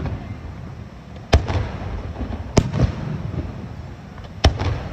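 Fireworks bursting: three sharp bangs about a second or two apart, each followed by a rolling rumble.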